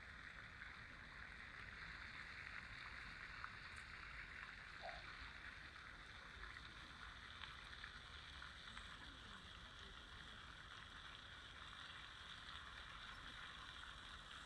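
Faint, steady rush of flowing water, even throughout.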